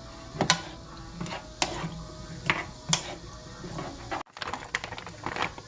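Irregular sharp clicks and knocks of kitchen utensils against dishes and cookware, about six strokes, with a brief break a little past four seconds.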